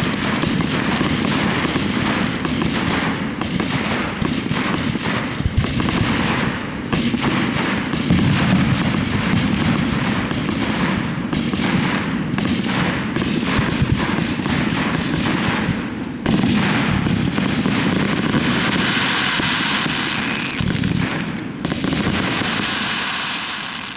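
Fireworks display: a dense, continuous barrage of bangs and crackling shells going off in rapid succession, dying away at the very end.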